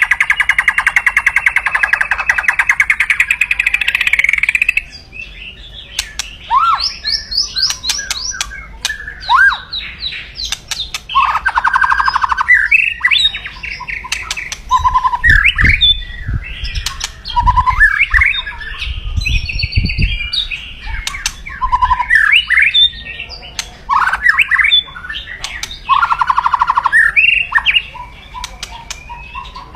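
White-rumped shama (murai batu) giving its loud, fast crackling rattle (kretekan) for the first five seconds or so, then a string of separate whistled phrases, trills and short rattles. This is the agitated, aggressive call of a fired-up bird. A few dull low thumps come in the middle.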